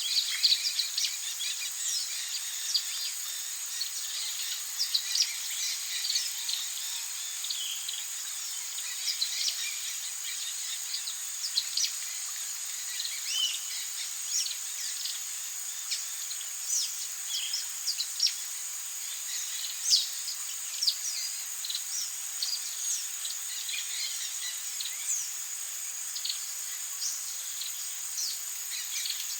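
Amazon rainforest soundscape: a steady high-pitched insect drone with many short bird chirps and whistles scattered throughout.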